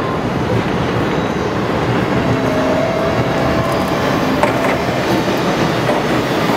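E2 series Shinkansen train running along the station platform: a steady rush of wheels on rail and car bodies passing close by, with faint whining tones and a brief click about four and a half seconds in.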